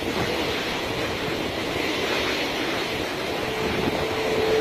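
Hurricane wind blowing hard and steadily, a dense, unbroken rush of noise. A faint steady tone comes in near the end.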